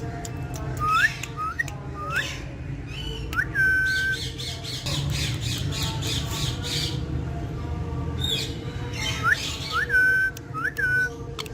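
A pet parrot whistling and squawking: short rising whistles, some held briefly, then a harsh squawking stretch in the middle, then more rising whistles near the end.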